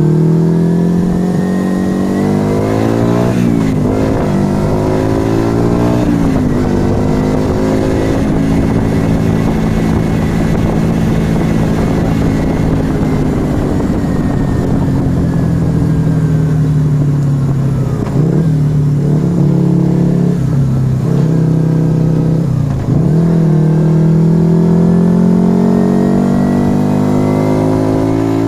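Yamaha XV125 Virago's small air-cooled V-twin engine through a Turbo Kit aftermarket exhaust, under way. The engine note climbs under throttle and drops sharply at gear changes twice in the first several seconds. It holds a steady pitch through the middle, dips at several more shifts later on, then climbs steadily again near the end.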